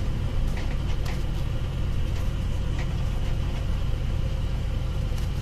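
Light truck's engine running at low speed after braking, a steady low rumble heard from inside the cab, with a few faint clicks.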